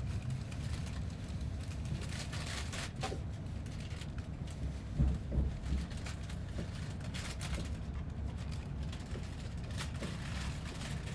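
Steady low rumble of a moving passenger train heard from inside the car, with scattered light clicks and rattles and a slightly louder knock about five seconds in.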